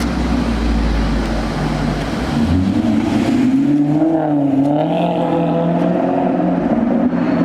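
Car engine running close by: a low rumble at first, then from about three seconds in a clear engine note that rises, dips and settles into a steady drone.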